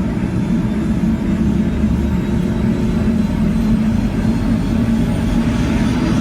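Eurocopter EC130 helicopter running up during engine start, its turbine turning the main rotor: a steady low drone with faint steady whining tones above it.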